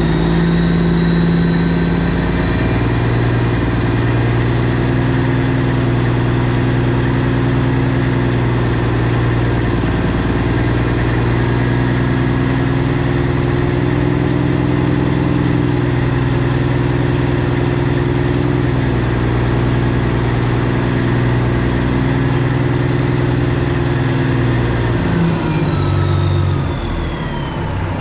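Straight-piped Detroit Diesel 12.7 engine of a Freightliner Classic XL semi running steadily, with a high whine over the engine note. Over the last few seconds the engine note and the whine fall together as the engine slows.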